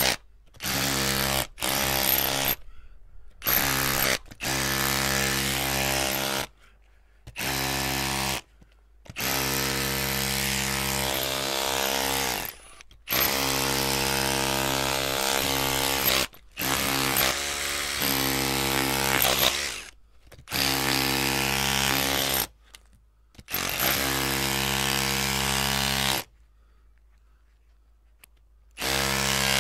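An electric drill's motor is started and stopped over and over, in runs from under a second to about three and a half seconds long, each at a steady pitch, with short pauses between them and a longer pause of about three seconds near the end.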